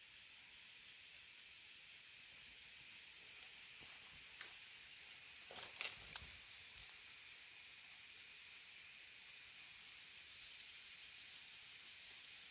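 An insect, most likely a cricket, chirping steadily in a high, even pulse of about four to five chirps a second.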